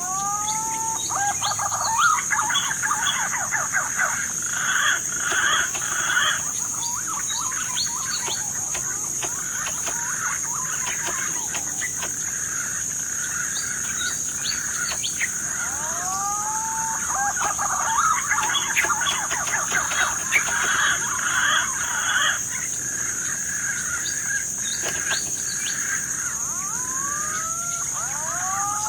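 Birdsong: a few rising whistled notes lead into rapid, busy chattering and twittering, and the same sequence starts over about every 14 seconds. A steady high-pitched whine runs underneath throughout.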